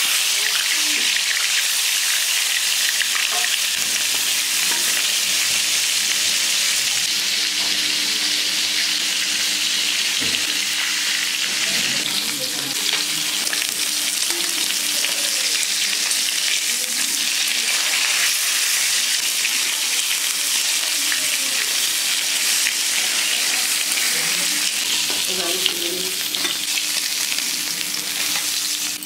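Potato pieces frying in hot oil in a kadai: a loud, steady sizzle that holds without a break.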